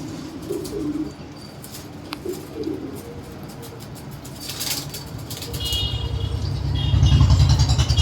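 Pigeons cooing in short low calls, with a few wing flaps and clicks. From about halfway through, a low rumble swells in and becomes the loudest sound.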